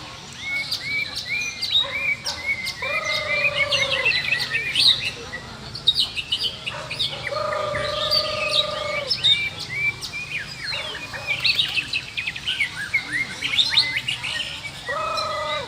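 White-rumped shamas singing: a dense run of rapid chirps, trills and whistled phrases. Three longer, steady low notes stand out, one about three seconds in, one near the middle and one at the end.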